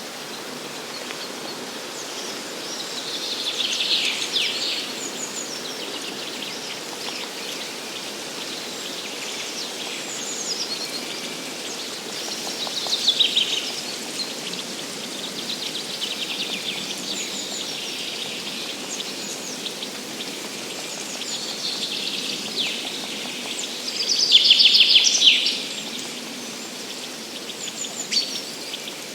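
Songbirds singing in a spring forest: short phrases of rapid high notes come at intervals, three main ones, with the loudest near the end. Under them runs a steady, even hiss of forest ambience.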